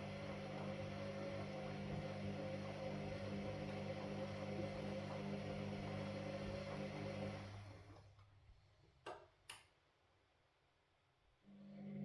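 Washing machine motor running with a steady hum, winding down about seven and a half seconds in. After a pause with two sharp clicks, the motor starts up again near the end, as the drum stops and restarts between turns of the wash cycle.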